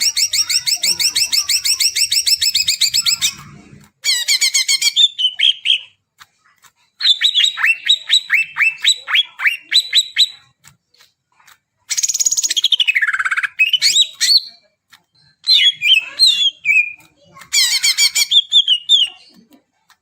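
Green leafbird (cucak ijo) singing: about six loud phrases of rapid high trills and chattering notes, separated by short pauses, with one long sweep that falls and then rises again about two-thirds of the way through.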